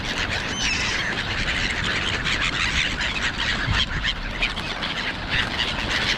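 A flock of gulls crying, many short overlapping calls with a few rising squeals.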